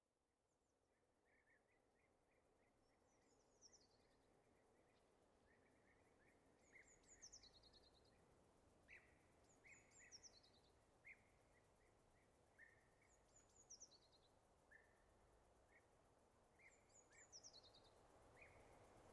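Faint outdoor ambience fading in, with birds singing: one bird repeats a short, high, falling phrase five times, about every three to four seconds, over many short chirps from others.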